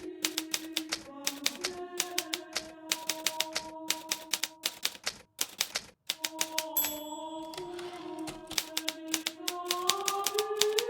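Hermes Baby portable typewriter keys striking in quick, irregular runs, with a short pause about five seconds in. Soft sustained background music plays underneath.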